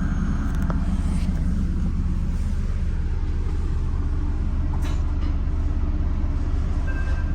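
Steady low rumble inside a Metra bi-level commuter coach, with a few faint ticks and rattles.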